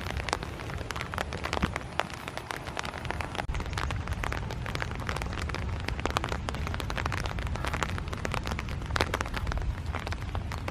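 Steady rain falling, many sharp drop hits close by over a low rumble.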